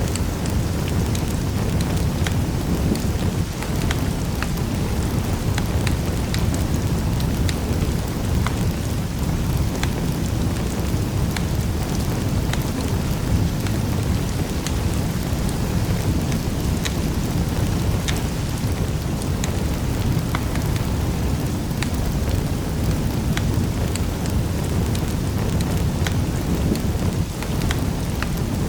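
Wood fire crackling in a fireplace: many small sharp pops and snaps scattered irregularly over a steady low rumble of the flames.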